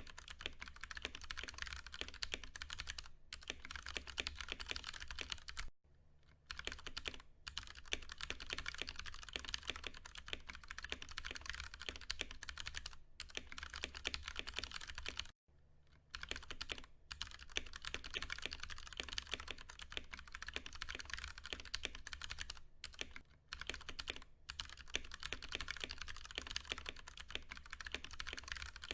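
Continuous fast typing on a Ducky One 2 Mini mechanical keyboard with Cherry MX Brown tactile switches, dense key clacks with short pauses about six and fifteen seconds in.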